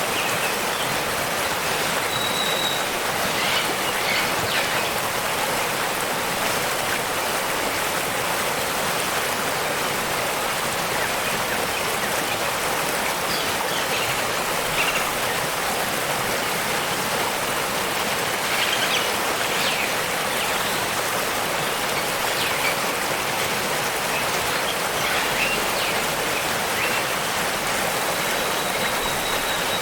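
Waterfall and rushing stream water, a steady even rush of noise. A few faint, brief high chirps come through now and then.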